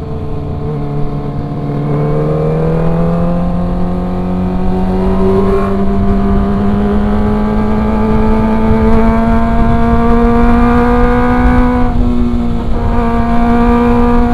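Kawasaki ZX-25R's 249 cc inline-four engine pulling under steady acceleration, its note climbing slowly for about twelve seconds, easing slightly near the end and then holding, with wind rumble on the microphone.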